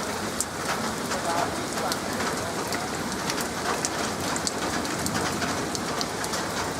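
Steady hard rain during a thunderstorm, with many scattered sharp drop ticks.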